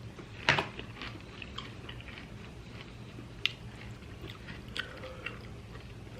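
Close-miked chewing and mouth sounds of a person eating, with one sharp crunchy bite about half a second in and scattered small wet clicks after it. A faint steady low hum sits underneath.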